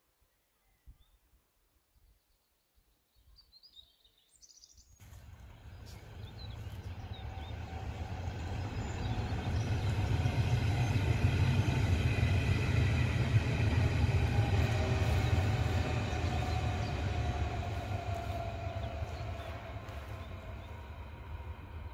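Berlin S-Bahn electric train passing on the track: a rumble with a steady whine above it starts suddenly about five seconds in, is loudest midway, and fades as the train moves away. Faint birdsong is heard before the train.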